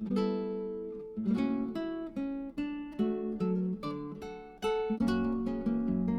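Background music: acoustic guitar playing a plucked, strummed tune.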